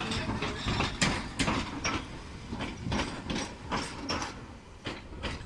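A Tobu 8000-series electric train running past, its wheels clacking irregularly over the rail joints. The clacks grow fainter near the end as the last car goes by.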